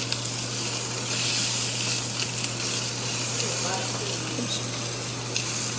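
Bone-in pork chops sizzling on a hot ridged grill pan while green beans sear in a stainless steel skillet: a steady frying hiss, with a low hum underneath.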